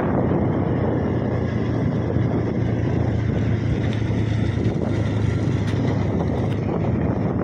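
Motorcycle engine running steadily at low road speed, with wind rushing over the microphone.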